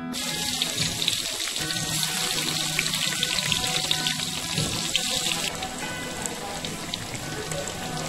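Soaked tempeh sizzling and crackling as it fries in hot oil, with faint background music underneath. The sizzle drops quieter about five and a half seconds in.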